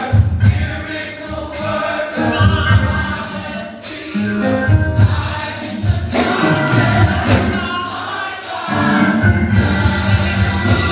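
Gospel choir singing with instrumental backing: a steady bass line and regular drum beats.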